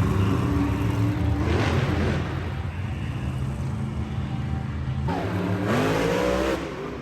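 Monster truck engine rumbling, then revved hard twice: once briefly about a second and a half in, and again near the end with a rising pitch that cuts off suddenly.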